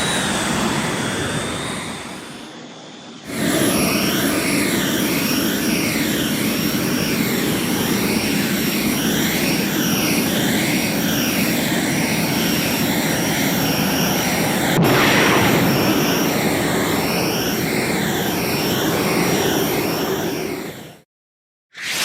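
Jet pack or rocket thrust sound effect: a steady roar with a swirling, phased sweep that rises and falls about every two seconds over a thin high whine. It starts abruptly about three seconds in, after a previous roar fades away, and cuts off suddenly near the end.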